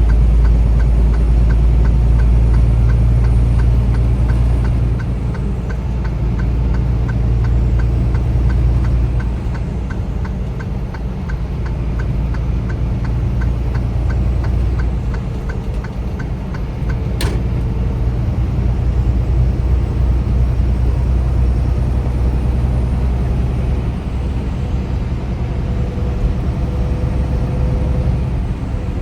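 Steady low rumble of a car driving, heard from inside the cabin. A turn-signal indicator ticks regularly, about two to three times a second, for roughly the first half, then stops. One sharp click comes a little after that.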